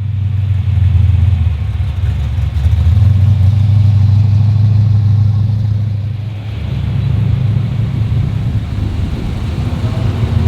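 A car engine running with a loud, deep rumble, easing off a little about six and a half seconds in.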